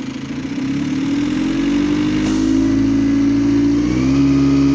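Bus diesel engine pulling away from idle: its note rises over the first couple of seconds and then holds steady. Around four seconds in it steps up and gets louder.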